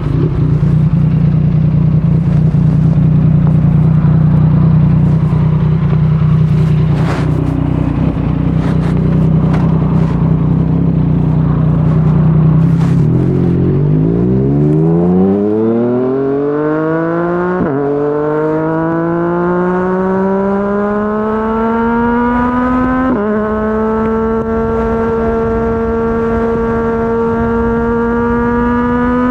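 Yamaha MT-09's inline three-cylinder engine through a Yoshimura R55 slip-on exhaust. It holds a steady high note under heavy wind noise, then the note sags and climbs as the bike accelerates through the gears. Three upshifts each drop the pitch sharply before it rises again.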